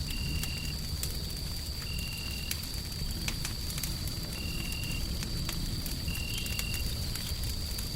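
Wood fire crackling with scattered sharp pops over a steady low rumbling noise. A thin high whine runs underneath, and a short high-pitched tone of about half a second repeats every one to two seconds.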